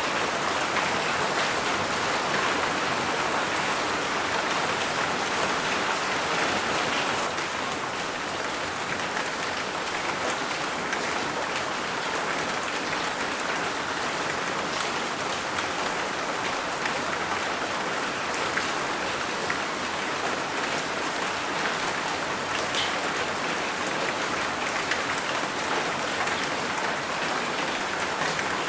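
Steady rain falling, an even hiss of many drops with a few sharper drop ticks scattered through it.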